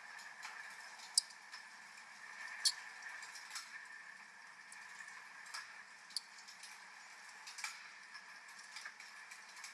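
Wood fire in a fireplace crackling, with irregular sharp pops a second or so apart, over a steady hiss of rain.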